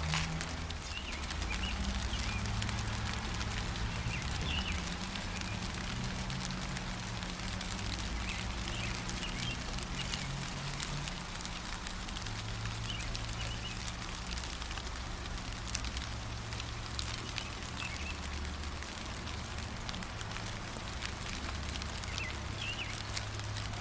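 Steady gentle rain, a hiss with the patter of single drops, with short bird chirps now and then and a low rumble underneath.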